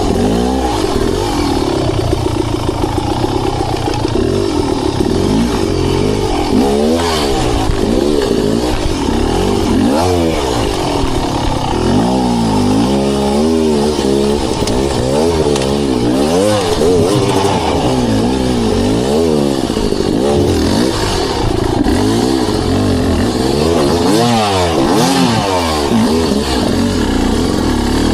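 Beta Xtrainer two-stroke dirt bike engine revving up and falling back again and again as the throttle is worked, with occasional clatter.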